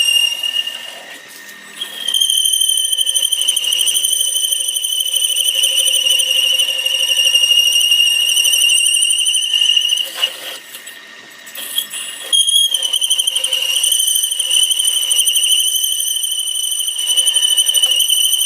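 Metal-cutting tool squealing against a turning steel workpiece on a lathe: a loud, piercing, steady high-pitched screech that wavers slightly. It breaks off twice for a second or two and cuts off suddenly at the end.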